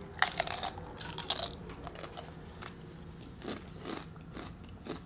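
Tortilla chips being bitten and chewed: a run of crisp crunches, loudest in the first second and a half, then fainter, spaced-out crunching.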